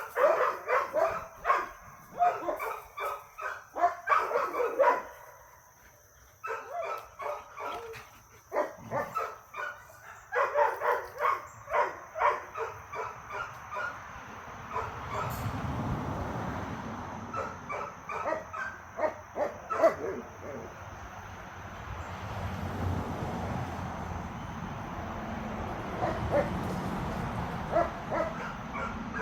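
Dogs barking and yipping in quick strings of short barks during play, with a brief pause about six seconds in. From about halfway the barks thin out over a steady low noise.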